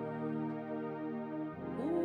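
Sustained keyboard pad chords of worship accompaniment, the chord changing about one and a half seconds in, with a new note sliding upward near the end.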